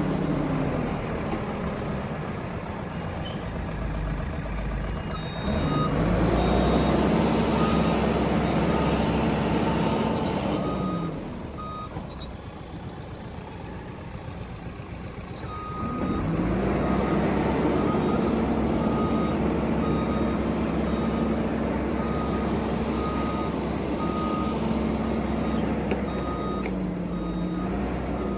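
Heavy machine's diesel engine revving up twice and running hard for several seconds each time, dropping back to a lower run in between. A reversing alarm beeps steadily over it.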